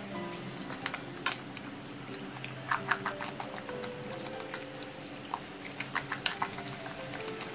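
Close-miked chewing of sweet and sour pork ribs, with sharp crunches as the rib cartilage breaks, the busiest clusters about three seconds in and again near six seconds. Soft background music plays underneath.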